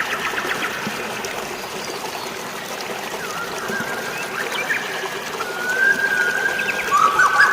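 Steady flowing water, like a stream or small waterfall, under birds calling: a run of quick chirps near the start, then long level whistles, with two birds whistling together near the end.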